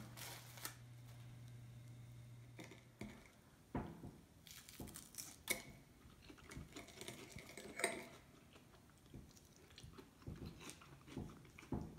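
Faint biting and chewing on fried carimañolas, yuca fritters filled with ground beef, with a few short clicks of a fork against the bowl. A steady low hum runs for the first three seconds, then stops.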